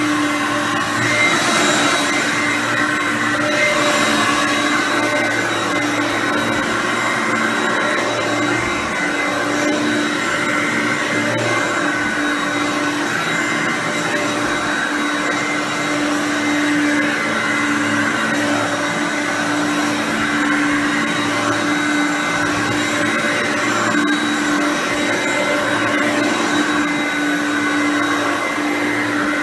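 Hoover Concept One U4219 direct-air upright vacuum cleaner running steadily while vacuuming, its motor holding an even pitch.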